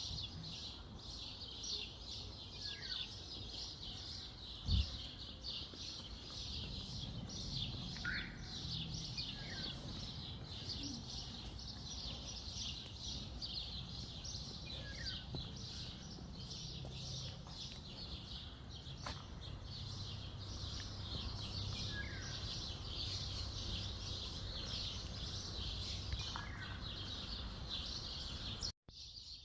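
Songbirds singing: a dense, continuous chorus of rapid high chirps, with short falling whistled notes now and then. A steady low rumble runs underneath, and there is a single thump about five seconds in.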